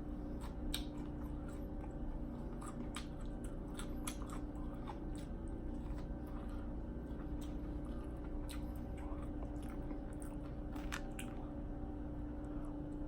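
A person chewing food close to the microphone, with scattered short wet mouth clicks, over a steady low hum.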